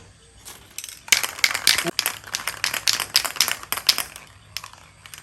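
Rapid rattling clicks and scraping from hand work on small metal parts of an old electric fan being repaired, in a dense run of about three seconds starting about a second in.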